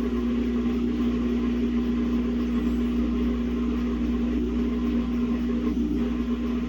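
Samsung WA50R5200AW top-load washing machine's motor driving the drum with a steady hum and rumble, as it tries to spin a single pair of pants, a badly unbalanced load.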